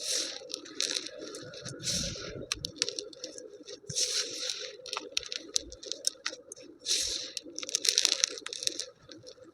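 Kitchen handling sounds during pizza preparation: a series of short rustling, scraping strokes, each about half a second, with small clicks and taps between them over a steady low hum.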